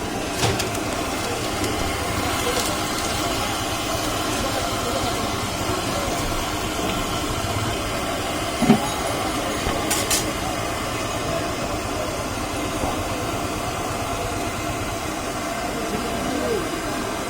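Steady roadside street noise of passing traffic, with a few short sharp knocks about half a second, nine and ten seconds in.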